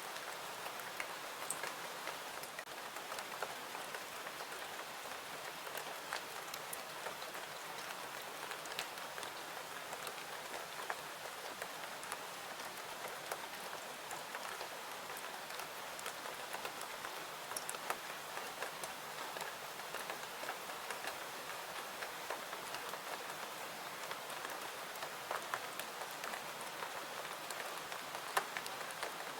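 Steady rain: an even hiss dotted throughout with many small, sharp ticks.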